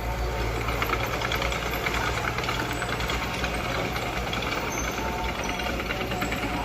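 Diesel engine of heavy earthmoving machinery running steadily under a dense, rapid metallic rattle.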